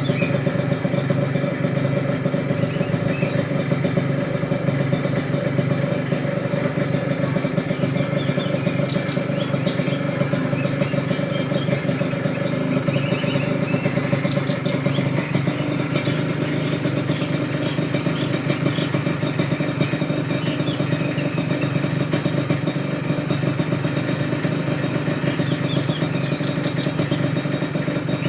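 Motorcycle engine running steadily at idle through a newly replaced exhaust, with a crisp, fast-pulsing note.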